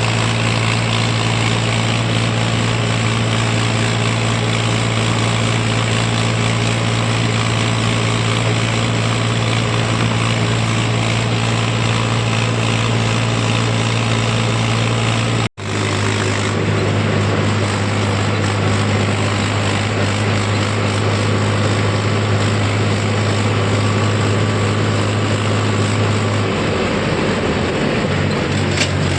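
Tractor engine running steadily while hauling a heavy load of paddy sacks on the road. The sound breaks off for an instant about halfway through, and the engine note shifts lower near the end.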